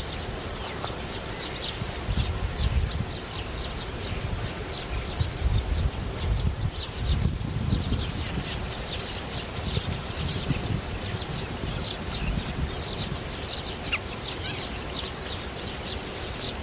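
Small birds chirping in many short, rapid calls, with a low uneven rumble underneath.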